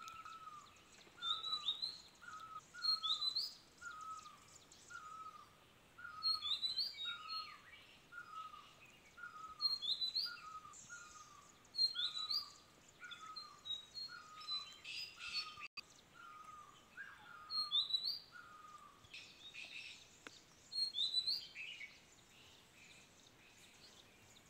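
Birds calling in forest: one keeps repeating a short falling note, about three every two seconds, while higher, quick upward-sweeping chirps come in clusters every couple of seconds. The repeated low note stops a little past three-quarters of the way through, leaving only the higher chirps.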